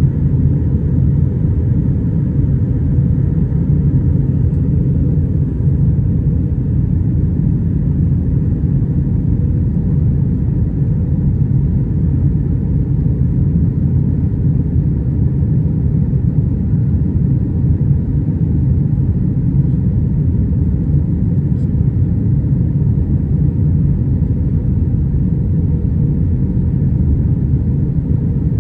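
Airbus A320 cabin noise: a steady, loud low rumble of engines and airflow, heard from inside the cabin.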